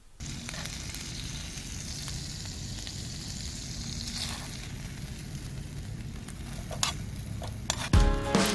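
Pork belly sizzling and spitting fat over a charcoal fire, a steady hiss with a few sharp pops near the end. Music with drums comes in just before the end.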